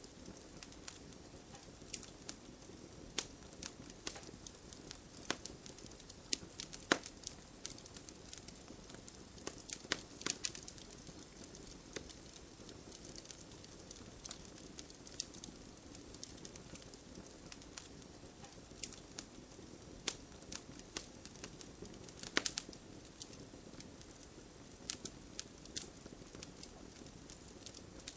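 Wood fire crackling, with irregular sharp pops and snaps, over a steady soft hiss of rain.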